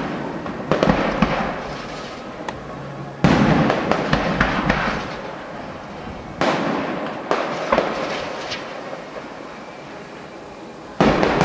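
Fireworks display: aerial shells bursting in a series of sudden bangs a few seconds apart, the loudest about three seconds in, each one fading away with scattered crackles and sharp pops.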